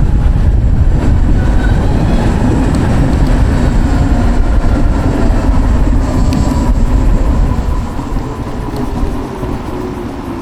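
Savic C3 electric motorcycle being ridden: a heavy wind-and-road rumble with the electric motor's whine over it. The rider eases off about eight seconds in, and both the whine and the rumble fall away as the bike slows.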